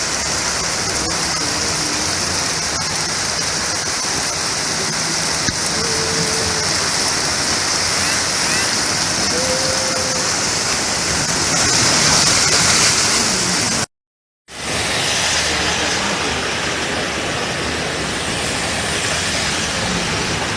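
Heavy tropical rain pouring down with rushing runoff water, a loud steady hiss. It cuts out for about half a second about two-thirds of the way through, then resumes.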